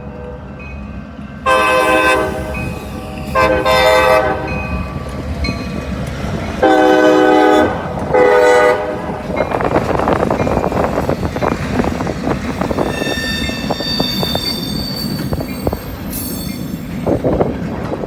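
Freight locomotive horn sounding four blasts, the first the longest, followed by the train passing close by: a steady rumble and clatter of wheels on rail, with a high wheel squeal partway through.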